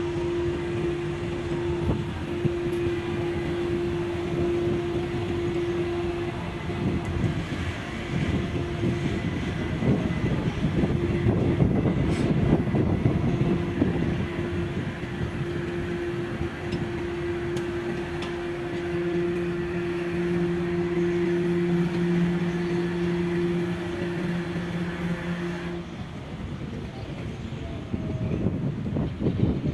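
Passenger ship's horn sounding a long, steady blast as the boat leaves the dock, with a second, lower horn tone joining in later; both cut off together near the end. A low, uneven rumble runs underneath.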